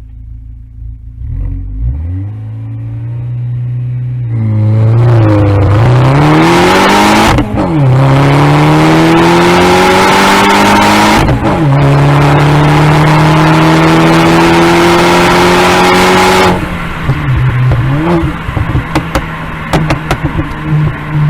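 Audi A4 B8's turbocharged engine with an upgraded K04 turbo, launched from held revs of about 3000 rpm and pulling hard under full throttle: the engine note climbs steadily, with two upshifts where the pitch drops back. Near the end the throttle lifts and the exhaust pops and crackles on overrun.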